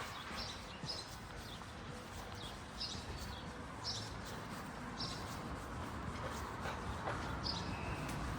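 A small bird chirping, short high calls about once a second, over steady outdoor background noise.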